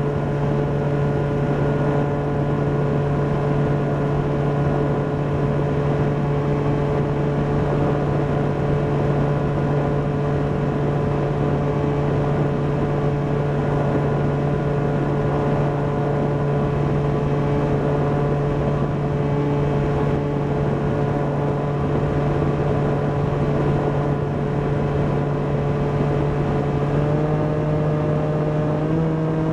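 Volantex Ranger EX RC plane's brushless electric motor and propeller running at a steady cruise throttle, heard from the onboard camera with airflow noise. The whine steps up slightly in pitch near the end as the throttle is raised a little.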